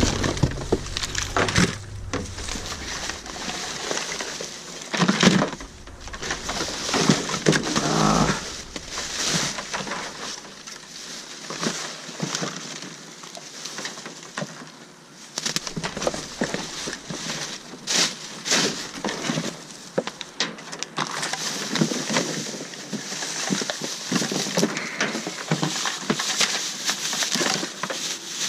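Rummaging through a dumpster: plastic garbage bags and cardboard rustling and crinkling, with frequent small knocks and scrapes as items are shifted about.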